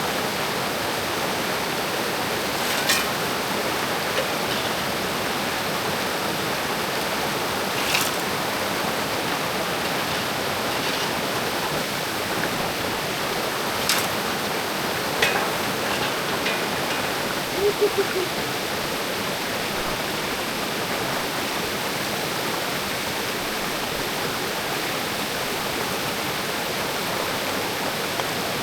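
Mountain creek water rushing steadily, with a few sharp clicks scattered through it.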